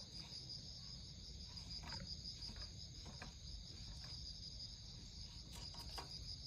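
Insects chirping in a steady, high, continuous trill, with a few faint ticks.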